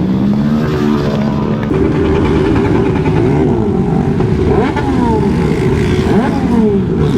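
Several motorcycle engines running together, with one steady engine note at first. From about two seconds in, several bikes rev up and down at different pitches over each other.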